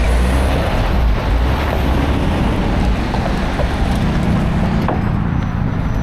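A motor vehicle running, with steady road noise and a heavy low rumble that is strongest in the first second or so, and wind buffeting the microphone.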